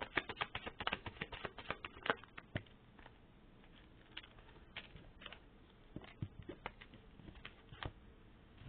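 Tarot cards being shuffled and handled: a quick flurry of card clicks and flicks for the first few seconds, thinning to scattered single taps.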